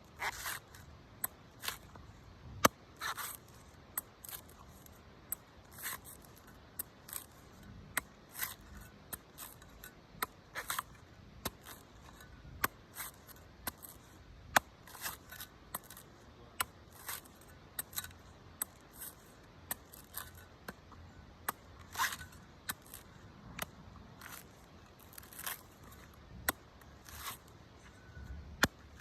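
Knife cutting and shaving the husk of a green coconut: a long run of sharp, irregular cuts and short scraping strokes, roughly one or two a second.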